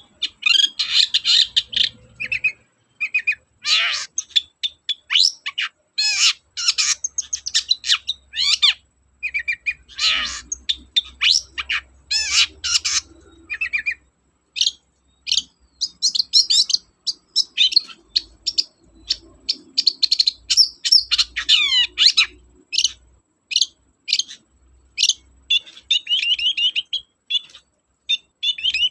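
Long-tailed shrike singing a fast, varied song of sharp chirps, rapid downward-sweeping notes and quick trills, in runs broken by short pauses. The song is a medley that includes imitations of other birds' songs.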